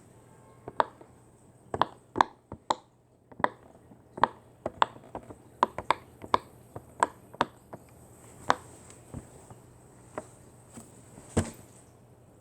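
A run of irregular sharp clicks and taps, about twenty in all, closely spaced for the first several seconds and thinning out towards the end.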